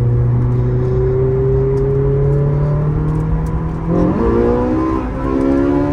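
Twin-turbo V8 of a McLaren 765LT pulling under acceleration, heard from inside the car. Its pitch climbs steadily, jumps abruptly about four seconds in, then climbs again.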